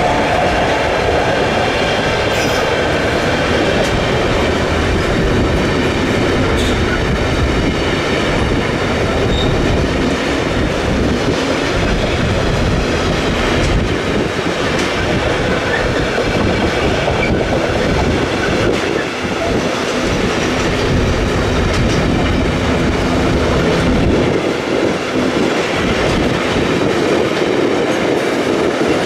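Intermodal freight train of container and tank-container wagons rolling past close by, its wheels clattering steadily over the rails.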